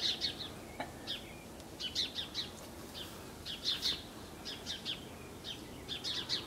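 Small songbirds chirping: short, high calls in scattered clusters of a few notes at a time.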